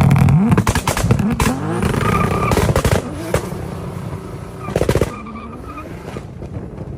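BMW engine with a loud, straight-piped exhaust revving hard, its pitch climbing quickly in the first two seconds amid a rapid string of sharp exhaust pops and crackles, then settling lower with another short burst of crackles about five seconds in.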